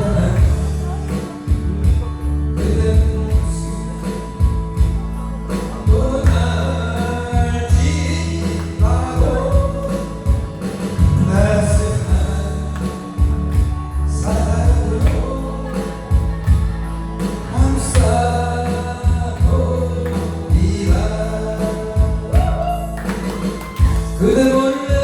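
A man singing into a microphone over an amplified backing track with a steady beat and heavy bass.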